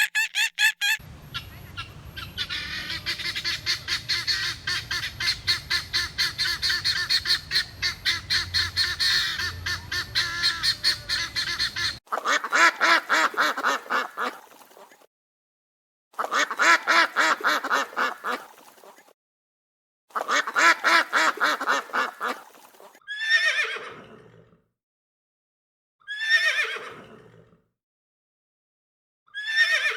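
Farm animals calling one after another. First comes about eleven seconds of rapid, continuous fowl calling over a low rumble. Then three long calls of about three seconds each, and near the end three short calls that each fall steeply in pitch.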